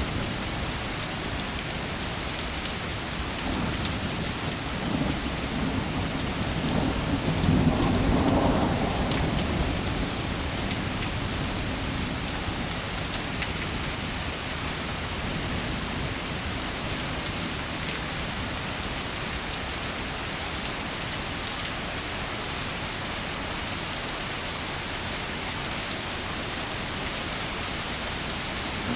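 Steady heavy rain, with a low rumble of thunder swelling about seven to nine seconds in.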